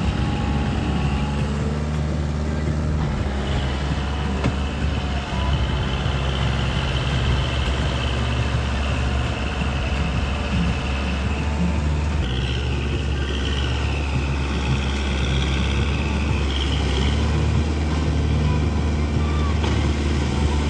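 Kubota 45 HP tractor's diesel engine running steadily under load while puddling a flooded, muddy paddy field. Its note shifts about three seconds in, again about midway, and near the end.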